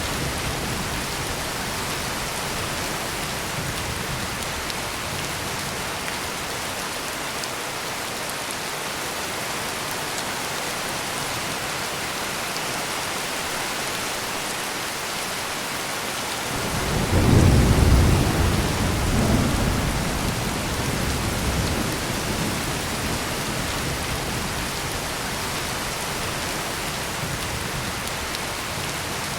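Heavy rain pouring steadily. About halfway through, a deep thunderclap breaks in and rolls away over several seconds.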